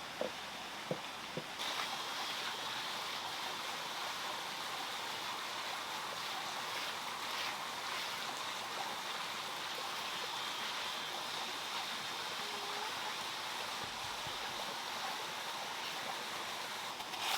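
Steady rush of running water splashing, as from a small stream or waterfall; the sound turns brighter and hissier about a second and a half in.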